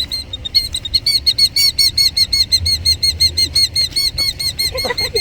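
Killdeer calling in a rapid, insistent series of high, shrill notes, about four or five a second. It is the alarm it gives during its broken-wing distraction display beside its ground nest of eggs.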